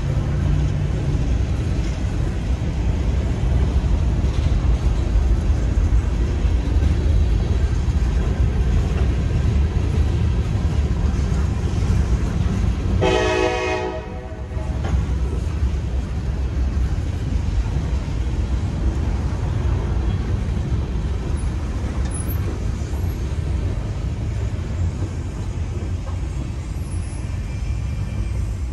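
Freight cars of a Norfolk Southern local (covered hoppers, then tank cars) rolling past at a grade crossing: a steady, heavy rumble of wheels on the rails. About halfway through, a horn sounds once for about a second and a half.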